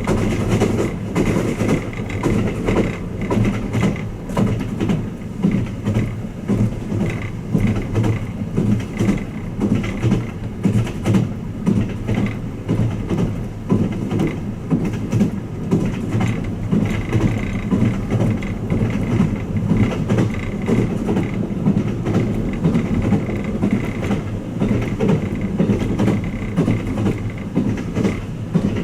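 Running noise of the Twilight Express Mizukaze train heard inside a passenger cabin: a steady low rumble with regular clickety-clack pulses as the wheels pass over rail joints.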